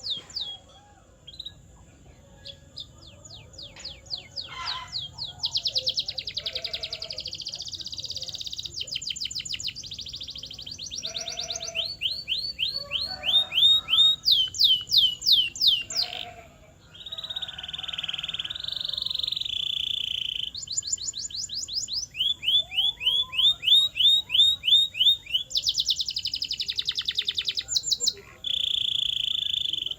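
Canary singing continuously: a song built of phrases of rapidly repeated high sweeping notes, each phrase held for a few seconds before switching to another speed. Some phrases are fast, even rolls, including a steady buzzing one about halfway through and again near the end.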